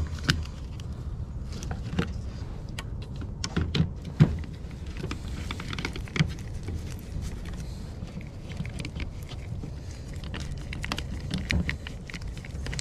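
Scattered clicks and light knocks of plastic and metal parts being handled as a chainsaw's clutch and chain-brake cover is fitted back on, over a steady low hum.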